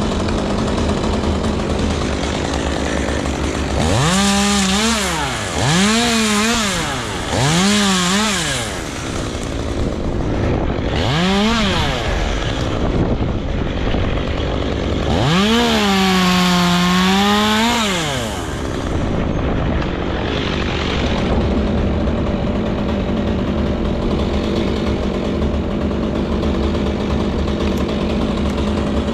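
Chainsaw engine revving up and dropping back to idle in four quick bursts, then held at full throttle for about three seconds in the middle, idling steadily in between.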